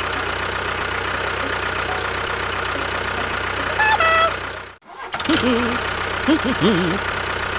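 Tractor engine running steadily at idle, with a short high tone just before the sound cuts out abruptly about five seconds in; after that, short warbling pitched calls sound over the engine.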